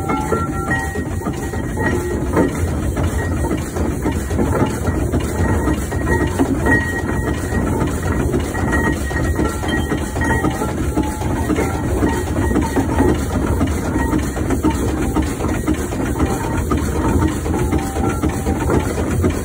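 1914 Fowler showman's steam road engine running steadily while being driven along, a continuous mechanical sound of its working parts with rapid fine ticking and no pauses.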